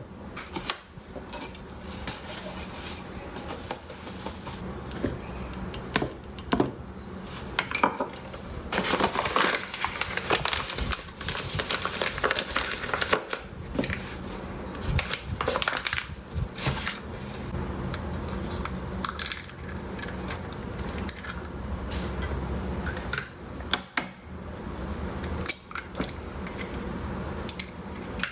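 Kitchen dishes and utensils clinking and scraping in many short, irregular knocks and rustles, over a steady low hum.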